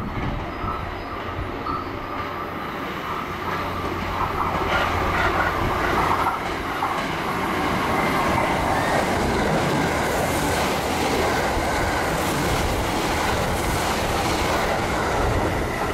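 Thunderbird limited express electric train running through the station at speed without stopping. The sound builds over the first few seconds as it approaches, then becomes a steady loud rush of wheels on rail as the carriages go past.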